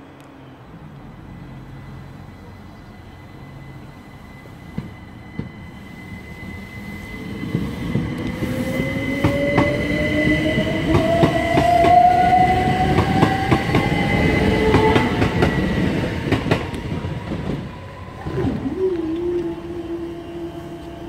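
A c2c Class 357 electric multiple unit accelerates past over the crossing: its traction motors whine steadily upward in pitch and its wheels click over the rail joints, loudest about halfway through. After the train has gone, a steady electric hum starts about two seconds before the end as the crossing barriers begin to rise.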